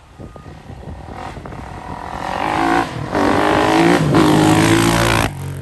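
Kawasaki KX450F dirt bike's single-cylinder four-stroke engine revving hard under acceleration, its pitch climbing and growing louder from about two seconds in, easing briefly, revving up again, then stopping abruptly near the end.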